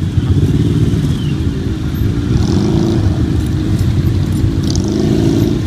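Motorcycle engines running as bikes ride in, a steady rumble with a louder engine note swelling twice.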